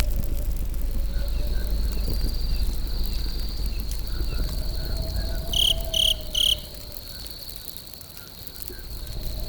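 Campfire burning with a low, steady rumble, under a constant high-pitched insect trill. Three loud chirps come about two-thirds of the way in, after which the fire's rumble dies down for a few seconds and then builds again.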